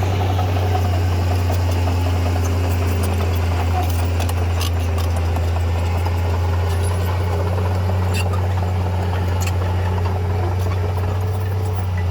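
Diesel engine of heavy earthmoving machinery running steadily with a deep, even drone, and a few sharp metallic clicks over it.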